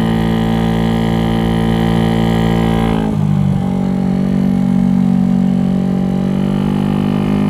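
GY6 50cc scooter engine with an 88cc big bore kit running hard under throttle while riding. About three seconds in the revs drop as the throttle eases off, then hold steady and climb slightly again near the end.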